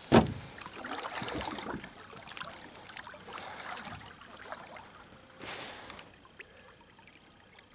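River water splashing and trickling, with a short louder burst about five and a half seconds in.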